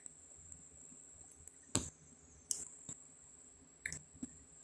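A few scattered, quiet clicks from computer input, about five, spaced irregularly, the loudest a little under two seconds in.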